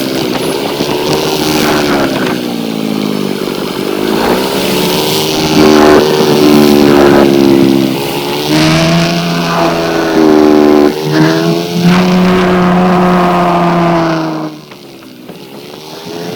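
Motorcycle engine under way, its pitch rising and falling as the throttle opens and the gears change, holding steady for a few seconds at a time. It goes much quieter near the end as the throttle closes.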